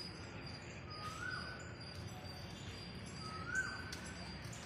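A bird gives a short rising whistled call twice, about two seconds apart, the second one louder. Behind it is a steady high-pitched chirping and low background noise.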